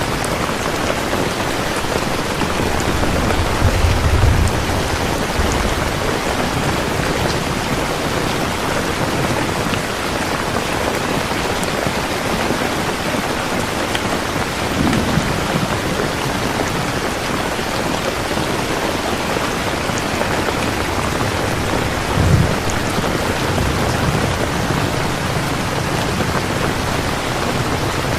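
Steady rain falling, with low rolls of thunder about four seconds in, around fifteen seconds and again near twenty-two seconds.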